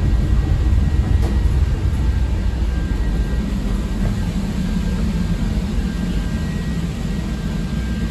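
Heard from inside a CTA 5000-series 'L' rail car: the train runs with a steady low rumble that eases off slowly as it slows beside a station platform. A faint steady whine sits above the rumble in the middle.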